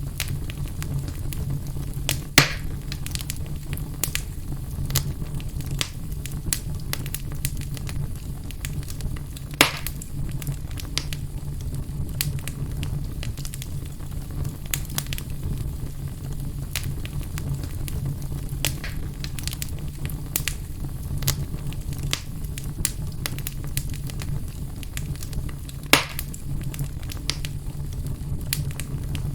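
Wood fire in a fireplace burning with a steady low rumble and constant small crackles, broken by three louder sharp pops.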